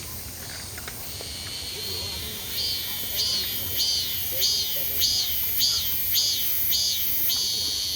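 Cicada singing: a high buzz that swells into a regular pulsing call of about two pulses a second, then evens out into a steady drone near the end.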